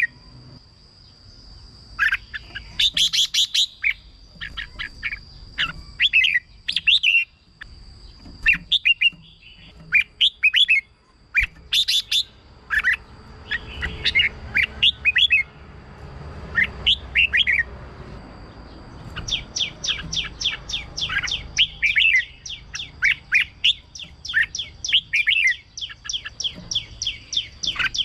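Red-whiskered bulbul singing: phrases of quick, sharp whistled notes with short gaps between them, growing busier and faster about two-thirds of the way through. A thin steady high whine runs underneath.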